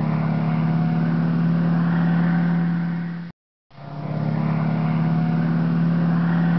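Aircraft engine running with a steady drone and a strong low hum. It cuts off abruptly about three seconds in, then fades back in half a second later and runs steadily again.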